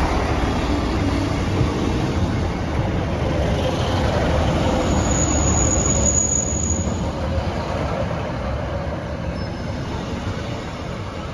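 Northern Class 158 and Class 156 diesel multiple unit running past along the platform: underfloor diesel engines and wheels on the rails, with a brief high squeal about five seconds in. It grows quieter near the end as the train moves on.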